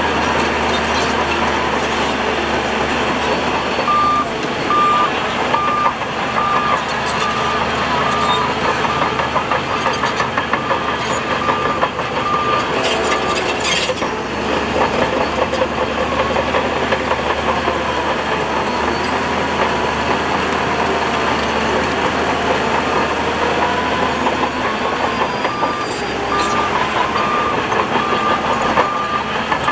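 Heavy earthmoving machinery, a bulldozer and dump trucks, running steadily with diesel engine noise. A reversing alarm beeps at an even pace in two spells, one from about four seconds in to about twelve seconds, and another starting near the end.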